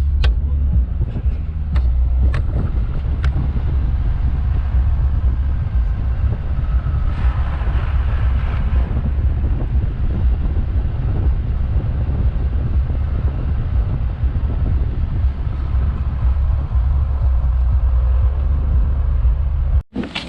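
Steady deep rumble of a car driving, heard from inside the cabin. A few sharp clicks fall in the first few seconds, and a brief wash of hiss comes up about halfway through.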